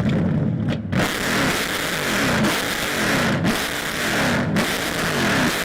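6.2-litre LS3 V8 in a Nissan Silvia: a low rumble for about a second, then hard acceleration. The engine note climbs again and again, broken by quick upshifts about once a second.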